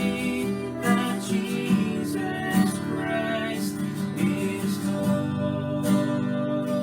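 Music with a strummed acoustic guitar playing steadily.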